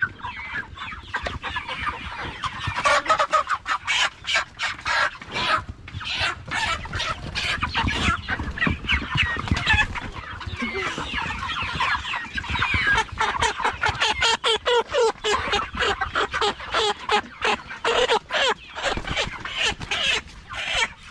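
Cornish Cross broiler chickens clucking and squawking in a pen as they are chased and caught, with many short knocks and scuffles mixed in.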